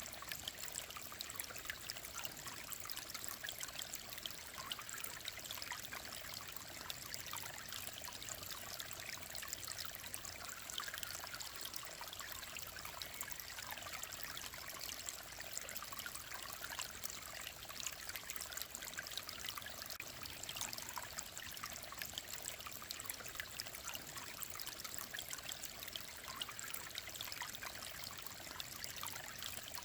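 Mountain stream flowing over rocks: a steady babble of running water with fine splashing detail, mostly in the higher pitches, unchanging throughout.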